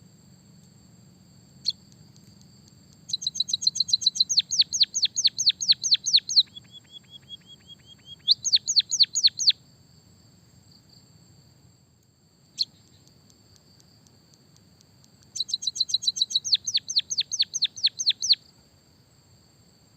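A songbird sings canary-style fast trills of sharp, downward-sweeping notes in three bursts, with a softer run of lower notes after the first burst. A steady, high, cricket-like tone runs underneath.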